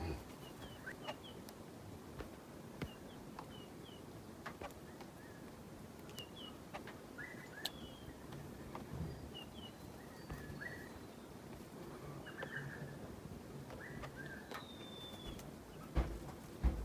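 Faint bird calls: short chirps, often in twos and threes, over scattered clicks and knocks, with two louder thumps near the end.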